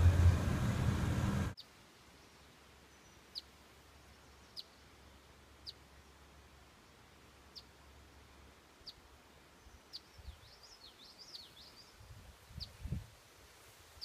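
Loud street noise that cuts off abruptly about a second and a half in, giving way to quiet country air. A small bird then chirps, short high downward notes about once a second, with a quick run of twittering notes about ten seconds in and a few low bumps near the end.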